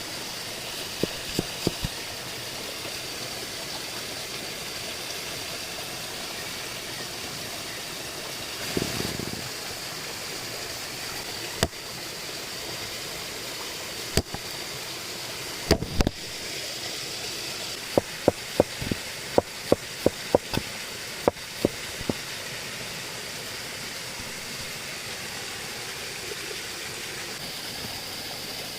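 Steady rushing of running water, like a stream, with scattered sharp knocks and clicks over it and a quick run of them about two-thirds of the way through.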